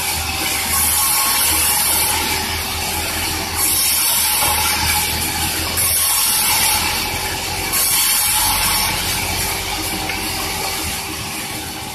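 Sawmill saw cutting through a large durian log, a loud, steady hissing noise that surges four times at roughly two-second intervals and fades off near the end.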